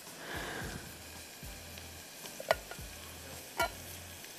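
Chopped onion and garlic frying in a saucepan with a steady sizzle. Two sharp clicks come through about two and a half and three and a half seconds in.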